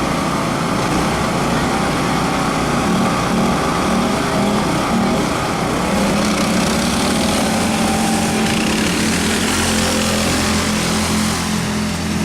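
Small lawn-tractor engines running steadily during a race, giving an even engine drone.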